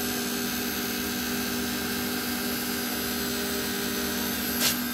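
A 48 V DC brushless refrigeration compressor and its fans running under load: a steady hum with several constant tones over an even whir. A short click comes near the end.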